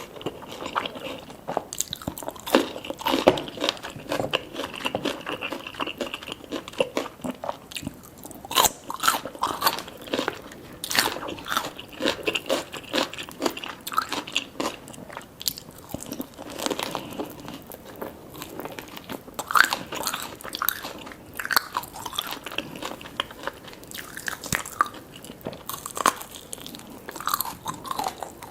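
Close-miked eating sounds: a person biting into and chewing crisp food, with irregular crunches throughout.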